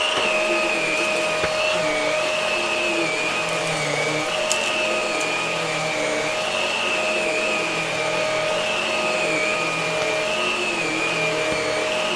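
Hart vacuum cleaner running steadily while vacuuming, its high motor whine wavering slightly up and down in pitch, with a couple of faint ticks.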